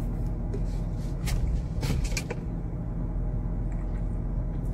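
Steady low hum of a parked car's idling engine, heard from inside the cabin, with a few short clicks and rattles about a second in and again around two seconds in.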